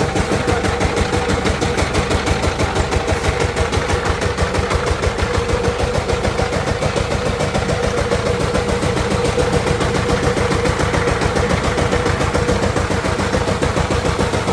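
Diesel engine running steadily after being started, with a fast, even knocking from its firing strokes.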